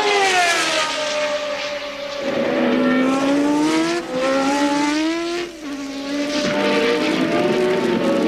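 1983 Formula One race car engines at full racing revs. The pitch falls as a car slows, then climbs through the gears, with brief drops at upshifts about four and five and a half seconds in.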